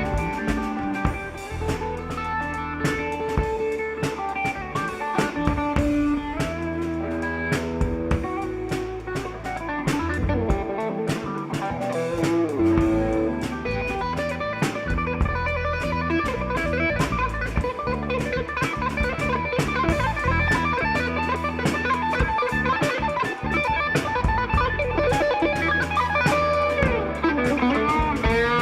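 A rock band playing live: electric guitar lines with bent notes over a drum kit's steady beat and a bass line, with no singing.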